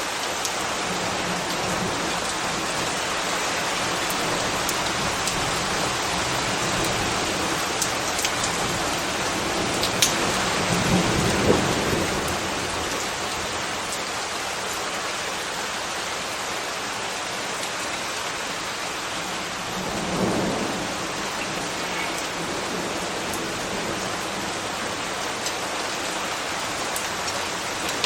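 Steady rain falling, with a few sharp drip ticks. Two brief low swells rise out of it, one about ten seconds in and one about twenty seconds in.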